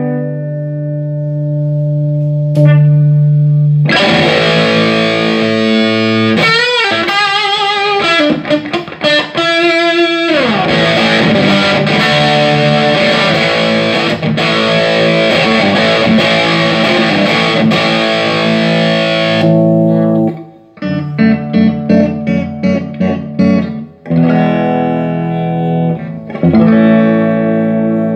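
Electric guitar played with a distorted tone through a Laney Ironheart IRT30 valve amplifier, sounding after a repair for the signal cutting out. A chord rings out, then heavy playing with wavy bends about seven to ten seconds in and a slide down, then short, choppy muted chords after about twenty seconds.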